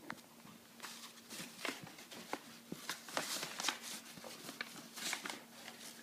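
Akita puppy playing with a stuffed bear toy: a run of quick scuffs, rustles and clicks, busiest in the middle, over a faint steady hum.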